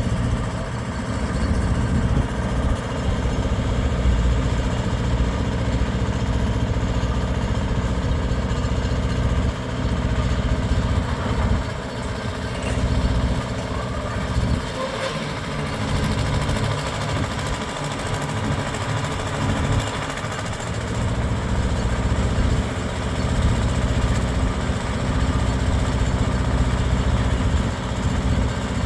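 An engine or motor running steadily with a low hum, easing off for a while in the middle before it picks up again.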